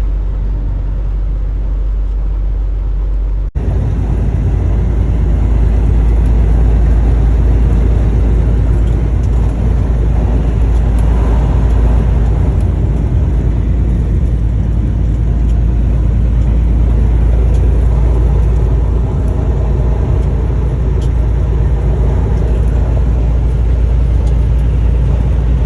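Semi-truck driving on a highway: a steady low rumble of engine and road noise with a hiss. About three and a half seconds in there is an abrupt cut, after which the noise is louder with more high hiss.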